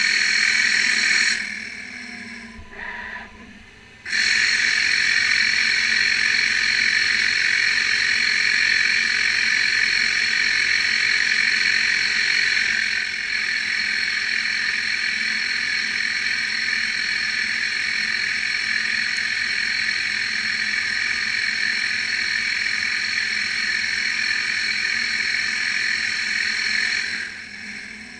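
CNC lathe contour-turning stainless steel: a steady, loud machining hiss and whine. It drops away about a second in for roughly three seconds, with a brief short sound in the lull, then resumes and runs until near the end, where it drops again.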